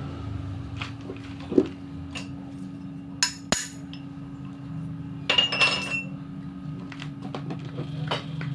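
Steel engine parts clinking and ringing as they are handled: a few sharp metal clinks, with two loud ringing ones a little over three seconds in and a cluster of them around five to six seconds in, over a steady machine hum.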